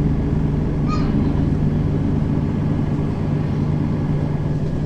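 Mercedes-Benz Citaro facelift city bus engine running steadily as the bus drives, a continuous low drone. A brief faint high-pitched chirp comes about a second in.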